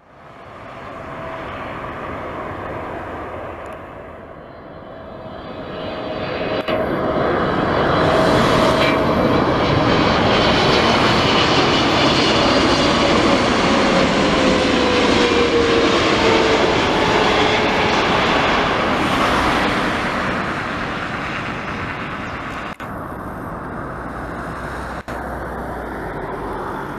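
Boeing 777-300ER's two GE90-115B turbofan engines as the jet comes in to land and passes by: a jet rumble that builds, is loudest for about ten seconds with a whine falling in pitch as the aircraft goes past, then eases off.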